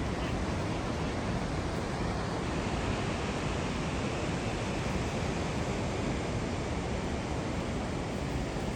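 Steady rushing noise of a large waterfall, even and unbroken.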